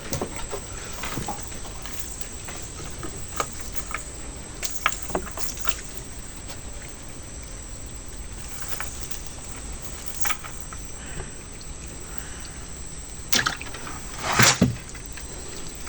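Water trickling and dripping over a steady wash of noise, broken by scattered splashes, with two louder splashes near the end.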